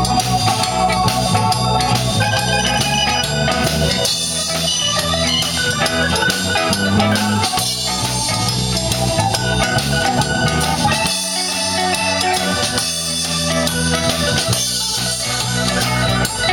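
Live blues band playing an instrumental break between sung verses, with drum kit and amplified instruments over a steady bass line.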